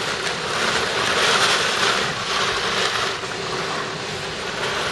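Heavy rain and strong wind of a severe summer thunderstorm, a steady loud rush.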